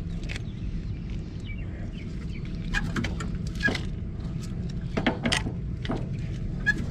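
Scattered light clicks and knocks of galvanized steel pipe and fittings being handled and test-fitted, clustered about three and five seconds in, over a steady low hum.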